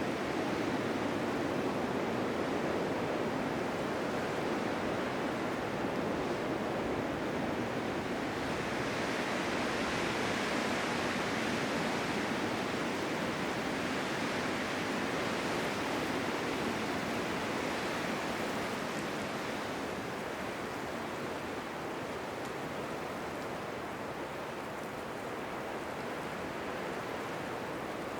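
Blizzard wind blowing as a steady rushing noise, turning brighter and hissier for a stretch in the middle.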